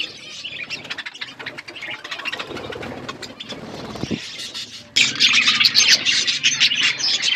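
A flock of budgerigars chattering: dense, rapid high chirps and warbles. It is quieter at first and grows abruptly louder about five seconds in.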